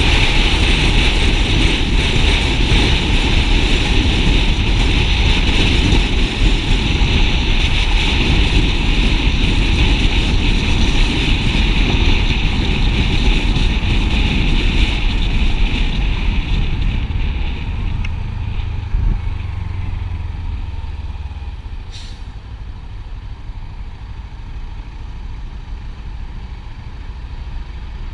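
Motorcycle riding along at speed, a steady rush of engine and wind noise. Past the middle it eases off and slows over several seconds, leaving a quieter running sound with two short clicks near the end.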